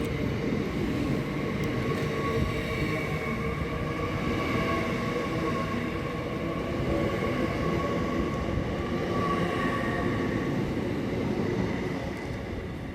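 A train moving through a station: a steady rumble with a high whine held throughout, fading near the end.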